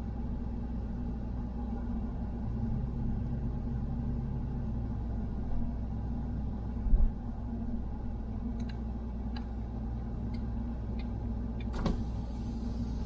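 Vehicle running slowly, heard from inside the cab: a steady low engine and road hum, with a single thump about seven seconds in and a few light clicks near the end.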